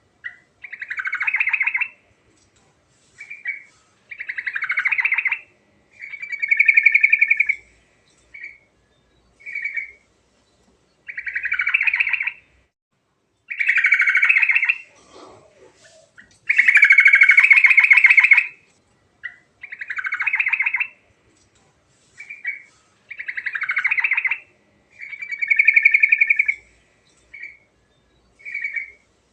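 Yellow-vented bulbul (trucuk) in full song: a string of loud phrases about one to two seconds long, each followed by a short pause, with brief single notes in between.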